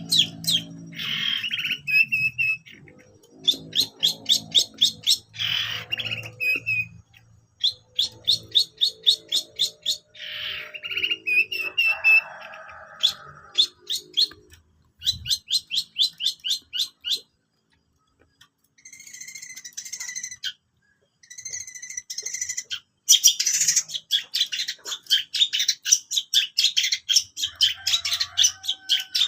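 Long-tailed shrike (cendet) singing busily: fast trains of repeated sharp high notes, about eight a second, broken by harsher chattering phrases, with a couple of short pauses. This is the mimicking song of a bird in full voice.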